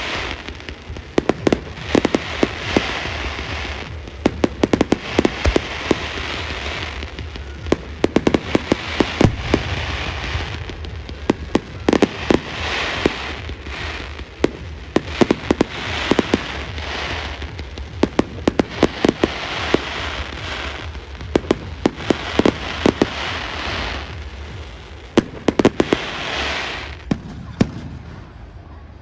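Fireworks display: a steady string of sharp bangs from bursting shells, with spells of crackling and a low rumble underneath, dying down near the end.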